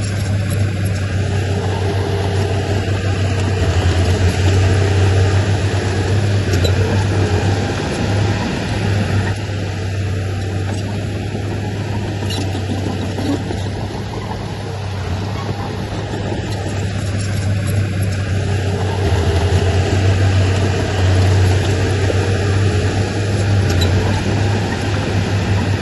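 Heavy earthmoving machinery's diesel engine running steadily, with a low hum, getting louder twice as it works under more load.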